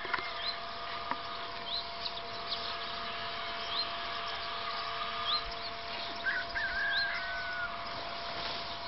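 Wild birds calling in open countryside. One bird repeats a short, high, rising chirp about once every second. Another gives a longer warbling call between about six and seven and a half seconds in, over a steady faint hum.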